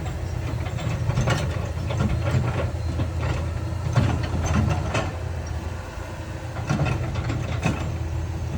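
Heavy diesel earthmoving machinery running with a steady low drone, broken by irregular metallic clanks and knocks.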